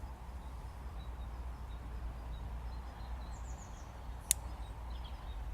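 Woodland background: a bird chirping in short quick runs over a steady low rumble, with one sharp click about four seconds in.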